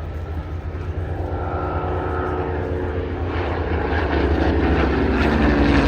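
Hawker Hurricane's Rolls-Royce Merlin V12 piston engine running with its propeller, growing steadily louder as the aircraft draws closer.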